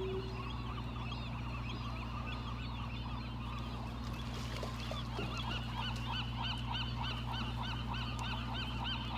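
A flock of seabirds calling from a rock, many honking calls overlapping in quick succession and growing denser and more regular about halfway through.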